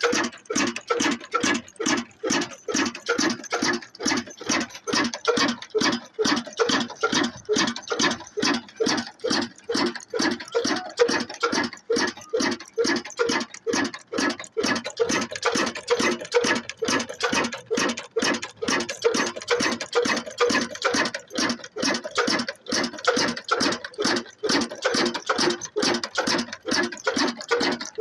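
Black engine, a slow-speed single-cylinder diesel driving a flour mill, running steadily with an even chugging beat of about two to three exhaust pulses a second.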